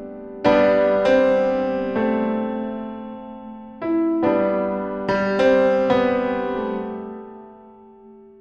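Background piano music: slow sustained chords struck about once a second and left to ring, fading away near the end.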